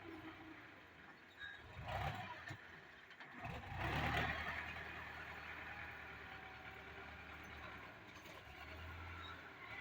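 Tractor engine running with a steady low rumble. It swells briefly about two seconds in, then louder around four seconds in, before settling back.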